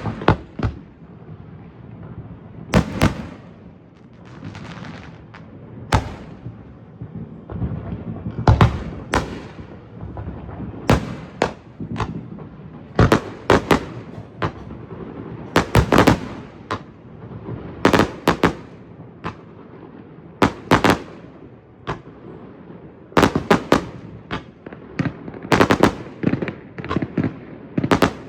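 Fireworks going off: many sharp bangs at irregular intervals, often in quick clusters of two to four, over a steady rumbling background.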